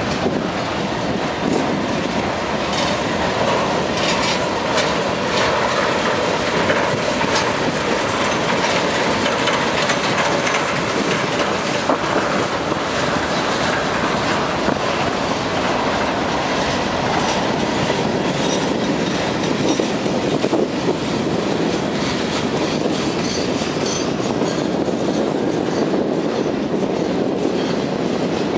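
Freight cars rolling past at close range: steady rumble and rattle of steel wheels on the rails, with a clickety-clack of the wheel trucks over the rail joints.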